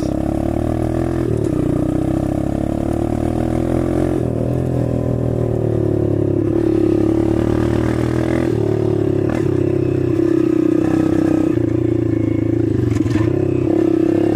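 Dirt bike engine running under a rider, its revs rising and falling gently as the bike is ridden across a yard.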